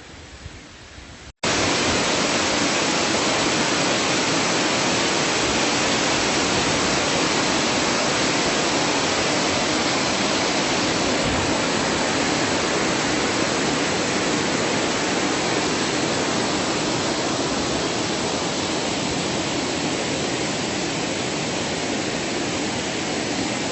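Rushing water of a large waterfall, a loud steady wash of noise that cuts in suddenly about a second and a half in, after a quieter moment.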